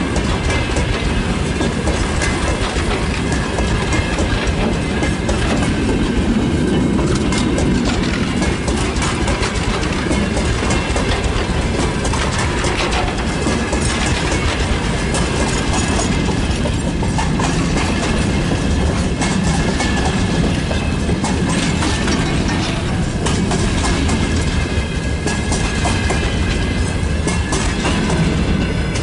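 Freight train of tank cars and hopper wagons rolling past: a steady rumble with irregular wheel clacks over rail joints.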